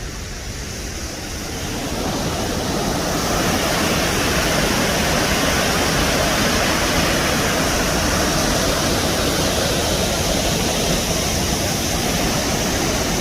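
Devil's Kettle waterfall on the Brule River running high with spring water: a steady rush of falling water. It grows louder over the first few seconds, holds steady, and cuts off suddenly at the end.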